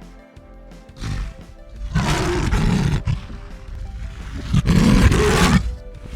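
Big cat roaring three times, the second and third roars longer and louder, over steady background music.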